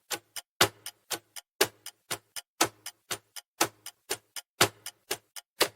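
Clock-ticking countdown timer sound effect: sharp ticks at about four a second, every second one stronger.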